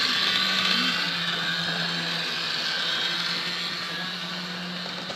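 Heljan model diesel locomotive running along the track: a steady electric-motor whirr and wheel-on-rail hiss that slowly fades.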